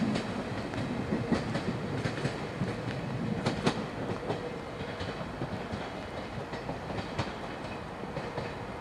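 Passenger train running away along the track, a steady rumble with irregular sharp clicks of the wheels over rail joints and points, the loudest a quick pair about three and a half seconds in; the rumble fades slowly as it goes.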